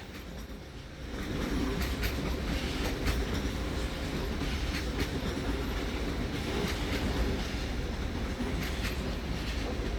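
Regional train pulling out of the station: a steady low rumble that builds about a second in, with the wheels clicking over the rail joints.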